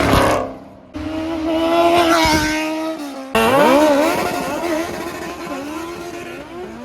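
Car engines revving at a car meet, heard in short clips cut together: the pitch glides up and down, and the sound changes abruptly about a second in and again past three seconds.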